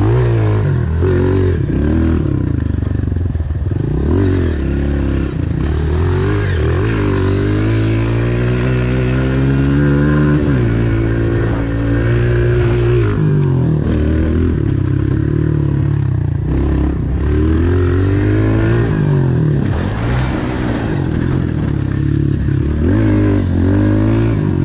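Honda CRF125 pit bike's single-cylinder four-stroke engine being ridden hard, revving up and down as it changes gear and comes on and off the throttle. One long climb in pitch near the middle ends in a sudden drop.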